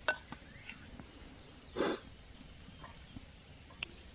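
Wood fire in a small camp stove crackling in scattered sharp ticks. About two seconds in there is one brief louder rushing noise.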